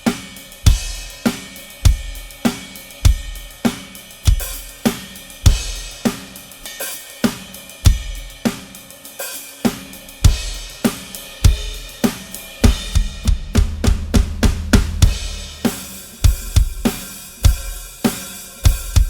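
Drum kit playing a steady groove on Avus Genext brass cymbals: kick and snare under a constant wash of hi-hat and ride or crash cymbals. About two-thirds of the way through, a quick fill of rapid hits with a low, ringing tom, then back into the groove.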